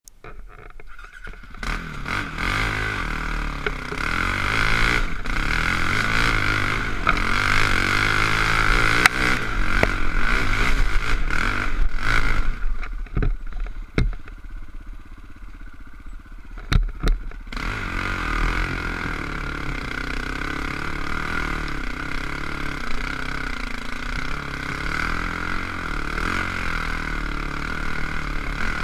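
KTM 525 single-cylinder four-stroke dirt bike engine running under load, its pitch rising and falling with the throttle. It drops to a much quieter note for a few seconds just before the middle, with a few sharp knocks, then picks up and runs steadily again.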